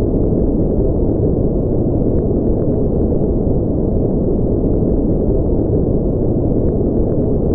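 Steady, unchanging synthetic noise for sleep, deep and rumbly with no hiss: nearly all of it sits in the low end, more like brown noise than true white noise.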